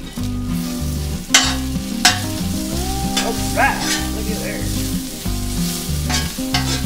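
Food sizzling in a pan on a gas grill while a metal spatula stirs it, with several sharp scrapes of the spatula against the pan.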